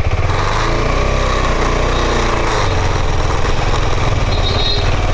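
Motorcycle engine running steadily under load while riding, with a continuous low rumble.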